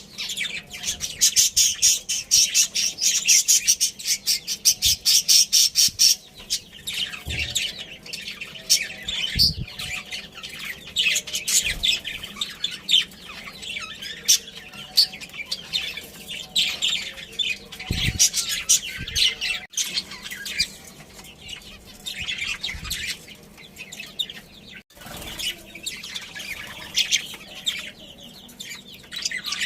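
Budgerigars chattering and chirping, a dense run of rapid chirps in the first six seconds, then looser chatter. A few soft low thumps occur among the calls.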